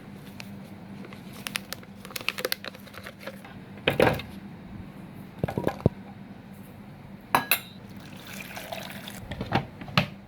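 Kitchen utensils and cookware clinking and knocking: a scatter of sharp clicks and a few louder knocks over a steady low hum.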